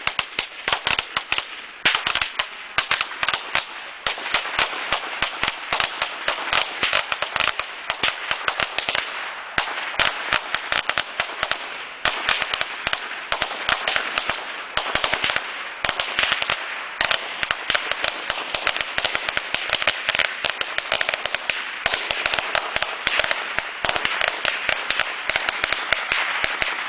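A box of old firecrackers and fireworks going off together after a lit string of firecrackers sets it off: a dense, unbroken rattle of rapid sharp bangs.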